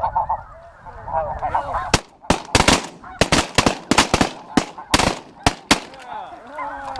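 Several shotguns firing a rapid volley of about fifteen shots in under four seconds, starting about two seconds in. A flock of snow geese is calling before the volley and again near the end.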